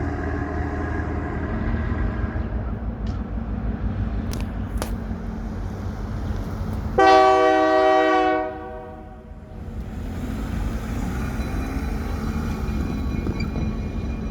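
Diesel freight train running past with a steady low rumble; about halfway through its locomotive sounds one air horn blast of about a second and a half, which then fades.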